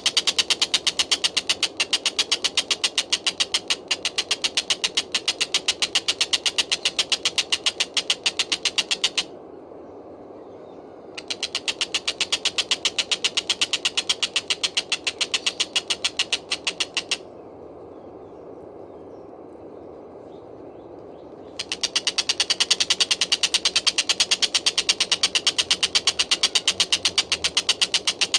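Kingfisher (tengkek buto) calling in long, fast rattling runs of sharp, evenly spaced notes, breaking off about nine seconds in and again about seventeen seconds in before starting up again.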